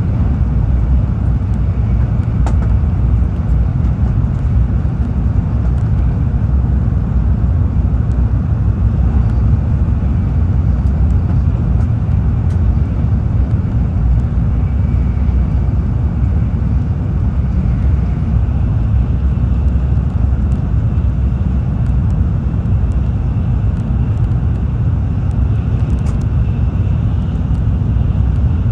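Steady low rumble of a Tokaido Shinkansen train running, heard inside the passenger cabin. A faint high whine joins about halfway through.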